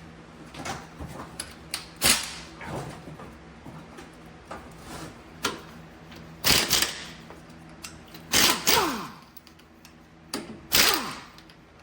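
Socket tools working the bolts that hold the stub axle (spindle) on a Land Rover 110 front axle: several short metallic clatters and clicks, a few of them ringing briefly, over a faint steady hum.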